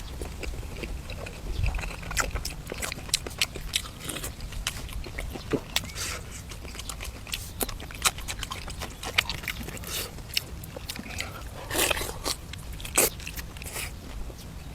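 A person eating close to the microphone: biting and chewing, with irregular sharp crunches and wet mouth clicks, a couple of them louder near the end.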